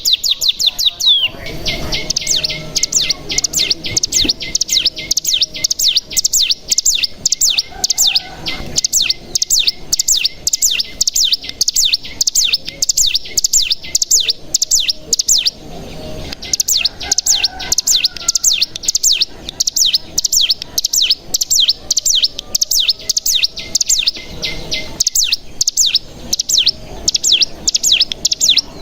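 Ciblek gunung (cigun) singing: a long, rapid run of high, sharply repeated notes in a fast chattering trill, with brief pauses about halfway through and near the end.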